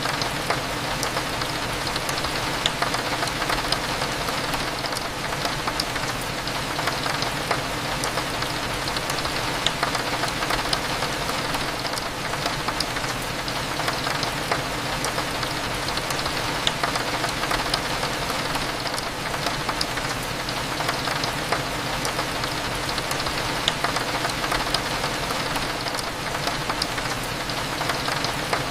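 Steady rain on a window glass, with many small drop ticks scattered through it, over a low steady cafe hum.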